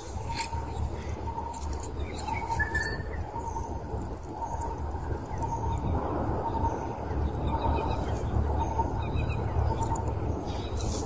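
Outdoor ambience: a short call of one pitch repeats evenly about one and a half times a second, likely a bird, with a few faint high chirps and a steady low rumble underneath.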